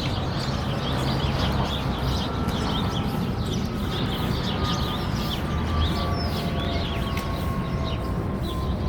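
Sparrows chirping over and over in short, rapid notes, over a steady low rumble of background noise. Faint steady tones slowly fall in pitch underneath.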